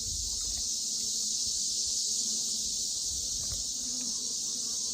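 Steady high-pitched chorus of insects, cricket-like, running without a break.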